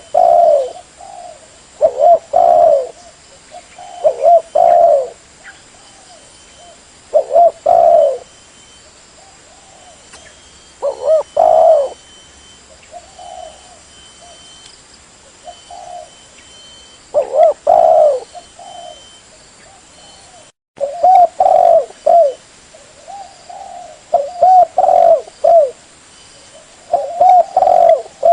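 Spotted dove cooing, a lure call: short groups of low, repeated coo notes every couple of seconds, with faint chirping from other birds between them. The sound cuts out completely for a moment about twenty seconds in.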